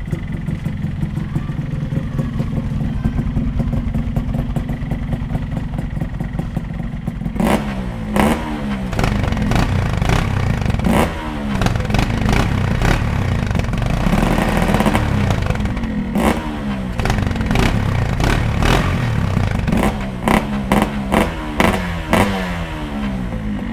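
Motorcycle engine idling with an even beat, then revved over and over from about seven seconds in: short throttle blips, the revs rising and dropping back, kept below about 4000 RPM.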